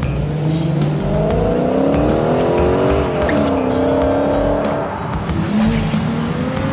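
Car engine revving up, then easing back down, over a steady low rumble.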